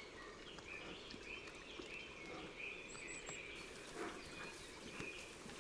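Faint natural ambience with a bird calling over and over in short notes, and a few brief high chirps about three seconds in.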